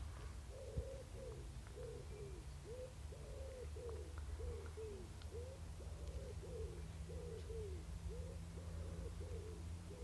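A bird's soft calls repeated in a steady run, about two a second, each a short note that rises and then falls, over a low steady hum.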